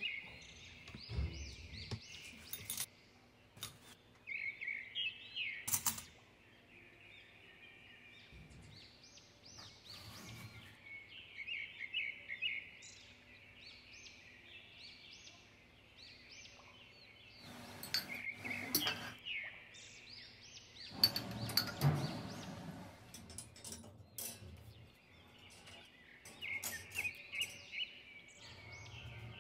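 Small birds chirping in repeated quick runs, with occasional clinks and knocks of metal and wooden kitchen utensils being handled, the loudest clatter about two thirds of the way in.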